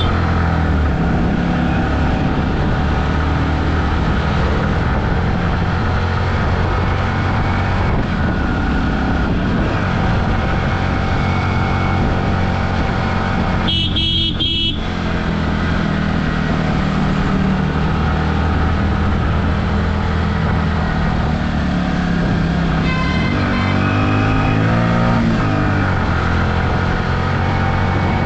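Yamaha R15 V3's single-cylinder engine running steadily while riding, with a vehicle horn honking once for about a second, about halfway through.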